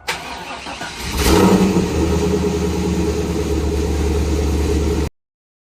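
A car's V8 engine, the 1998 Firebird's LS1, starts up, surges about a second in, then settles into a steady idle. The sound cuts off abruptly near the end.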